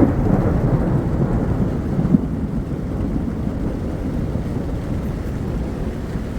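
Thunder: a loud clap breaking right at the start, then a long low rumble that slowly fades.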